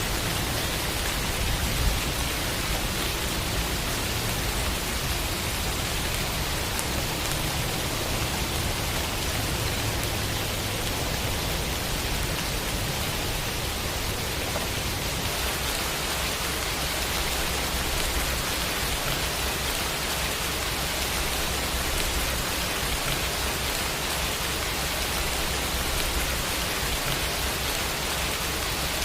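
Rain sound effect: a steady, even hiss of falling rain, with a single faint click about two seconds in.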